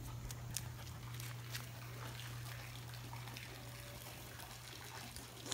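Faint trickling water over a steady low hum, with a few light clicks.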